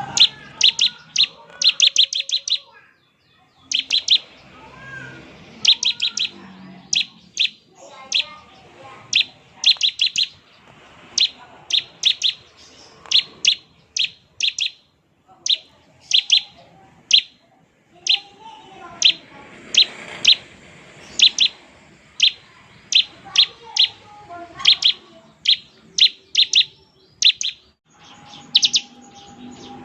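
Bar-winged prinia (ciblek) calling in quick runs of short, sharp high notes, two to six at a time, repeated every second or so: the rattling "ngebren" call used as a lure to make other ciblek answer. Fainter twittering sits beneath.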